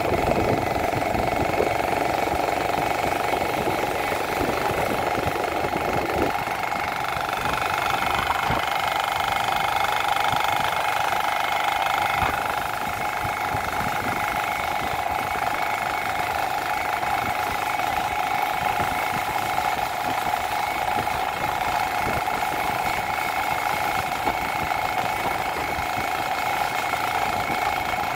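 Small motorcycle engine running steadily while riding along a road, a continuous drone over a rough low rumble that eases off about six seconds in.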